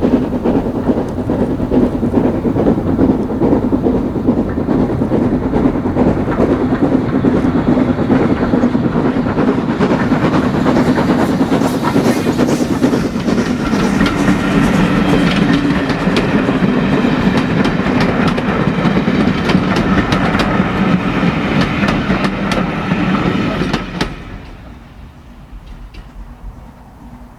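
A steam-hauled heritage train passing close by, its carriage wheels clattering over the rail joints. The sound falls away sharply near the end.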